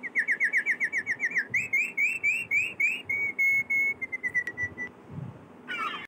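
A bird singing: a fast series of down-slurred notes, then a run of rising notes, then level notes that slow and fade. A short, different call comes just before the end.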